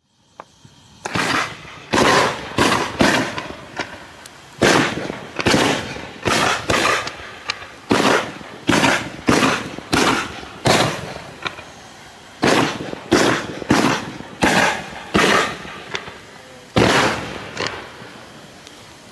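Brokat Pastell fireworks battery (cake) firing its shots one after another, about twenty sharp bangs spaced roughly half a second to a second apart, each trailing off briefly. The volley starts about a second in and stops near the end.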